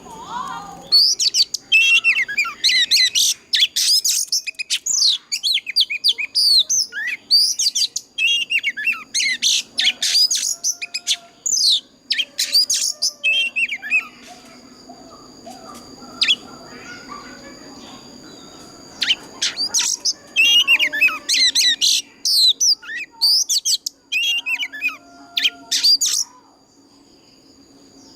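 Oriental magpie-robin singing in fast runs of varied, sweeping whistled notes. The song breaks off for several seconds about halfway through, then starts again. A steady high tone runs behind it.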